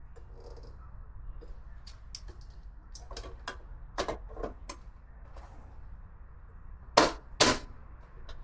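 Small hard parts clicking and knocking as they are handled and fitted by hand, with two sharp knocks in quick succession near the end.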